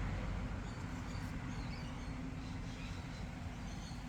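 Faint high chirps of small birds over a low steady hum and rumble of outdoor background.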